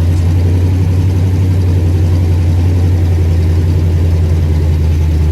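Race truck's engine idling with a steady, deep rumble; the pitch holds even, with no revving.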